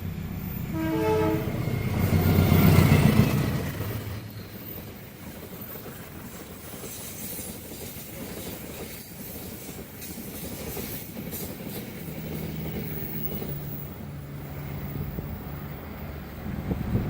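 Train horn blast about a second in, then a train passing close at speed, loudest around three seconds in, with its rumble carrying on more quietly afterwards.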